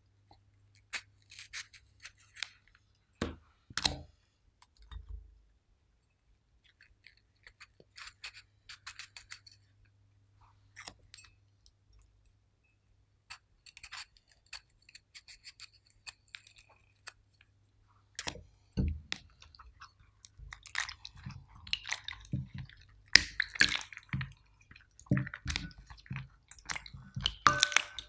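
Food being worked by hand with kitchen utensils: scattered clicks and clinks against a bowl mixed with soft, sticky squishing sounds, sparse at first and growing busier and louder about two-thirds of the way through.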